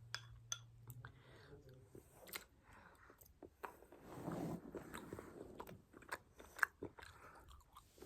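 A person eating noodles close to the microphone: chewing with many small sharp mouth clicks and smacks, louder for a stretch about four seconds in.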